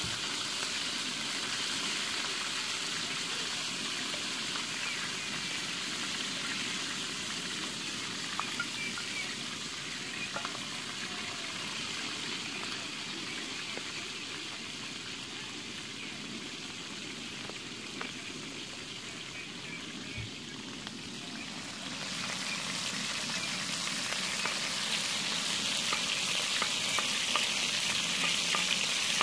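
Chopped green peppers frying in hot oil in a pan, a steady sizzle with a few faint clicks. The sizzle grows louder and brighter about three quarters of the way through, and near the end a wooden spoon stirs them.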